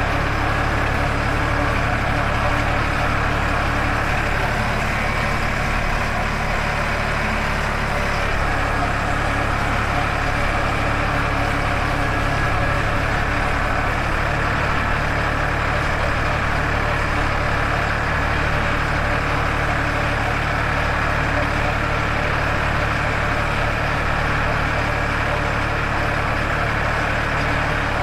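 Farmtrac 60 tractor's diesel engine running steadily at an even speed.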